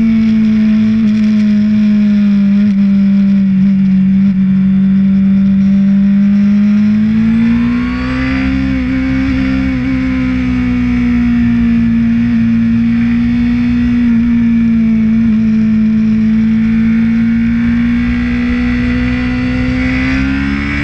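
Honda CBR600RR's inline-four engine running under steady throttle on the move, heard from on board, its pitch sagging slightly and rising again about eight seconds in and near the end. A rough rumble of wind and road noise runs underneath.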